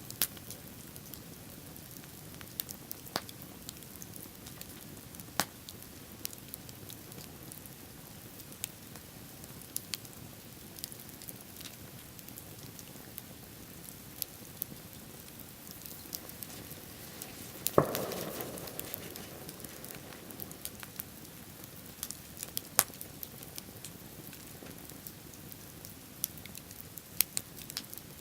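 Wood bonfire crackling, with scattered sharp pops over a steady hiss. About eighteen seconds in, one louder crack is followed by a brief rush of sound lasting a couple of seconds.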